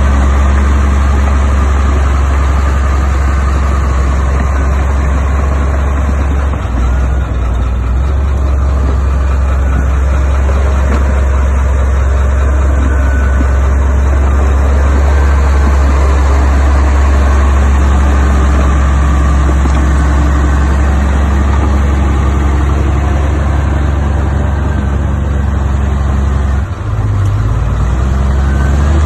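Heavy diesel engine of an earthmoving machine running steadily with a deep, loud drone, wavering briefly about seven seconds in and again near the end.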